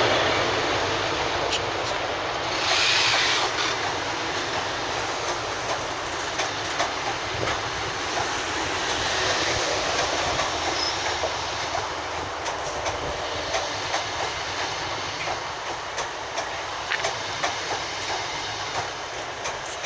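Passenger coaches of a Class 90-hauled train rolling past as it pulls out of the station, with a steady rolling noise and wheels clicking over rail joints.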